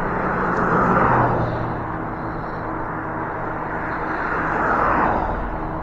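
Street traffic heard from a moving e-bike: two vehicles pass, one swelling and fading about a second in and another near the end, over a steady rumble of road and wind noise.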